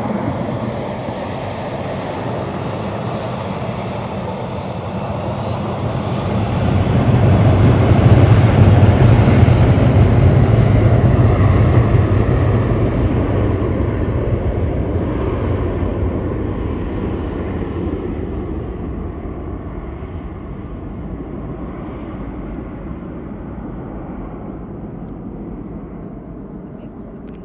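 Airliner's engines passing close by, with a high whine at first, then swelling to a loud peak about eight to ten seconds in and slowly fading away.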